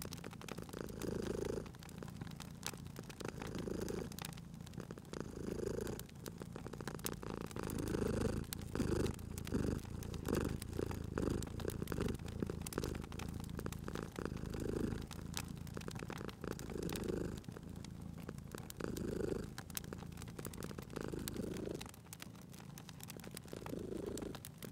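Domestic cat purring steadily, the purr swelling and fading with each breath about every two seconds, with sharp crackles and pops from a wood fire scattered throughout.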